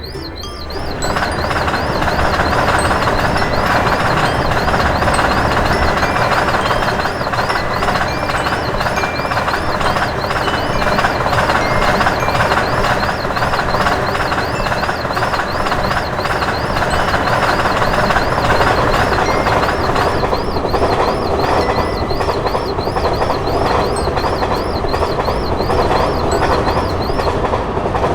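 A train passing over a level crossing, its wheels and wagons running steadily with a dense clatter. Over it, the crossing signal's high electronic warning tone warbles on and on, stopping shortly before the end.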